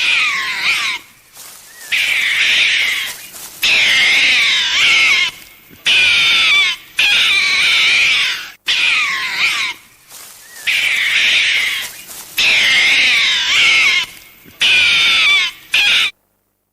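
Animal calls: repeated loud bursts of high, wavering, overlapping cries, each a second or two long, with short breaks between. They cut off suddenly near the end.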